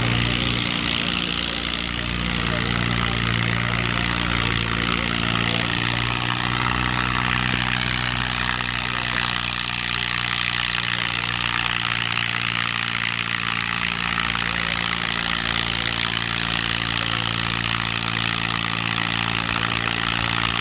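Tractor engine idling steadily, running at an even pitch without revving, over a steady background hiss.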